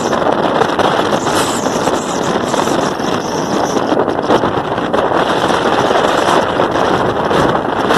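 Loud, steady wind noise on the microphone.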